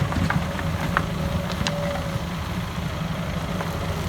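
Hydraulic excavator's diesel engine running steadily, with a few light clicks over it.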